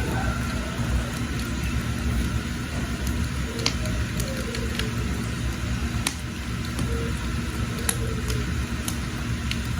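Wood fire burning with a steady low rumble and scattered sharp crackles and pops from the burning wood, with faint bird chirps in the background.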